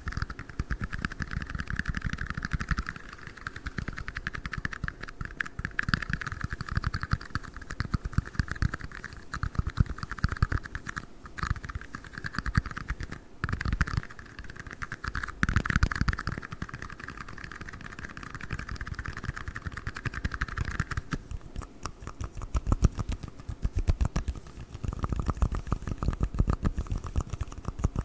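Tiny red cups tapped and clicked rapidly and irregularly, close up, like fast typing.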